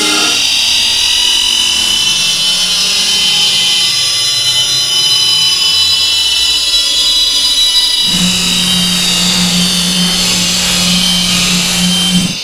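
Loud, harsh, distorted high-pitched electronic screeching that holds steady, with a low steady hum joining about eight seconds in.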